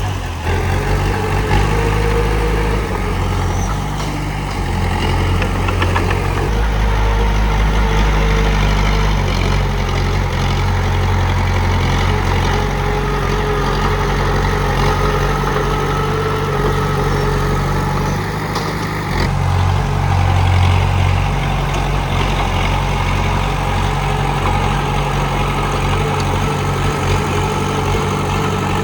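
Komatsu D31P bulldozer's diesel engine running steadily, its deep drone shifting in pitch and level a few times.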